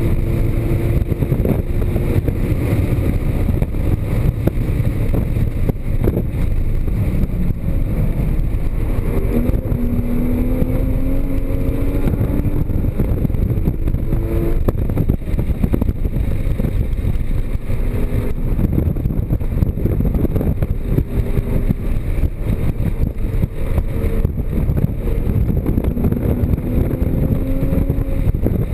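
Porsche Cayman GTS's flat-six engine at full effort on a race track. Its pitch climbs, drops off and climbs again several times as the car accelerates and shifts, over a constant heavy rumble of road and wind noise.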